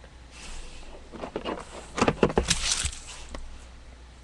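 Rustling and crackling of trading cards and their packaging being handled, with a flurry of sharp clicks around the middle.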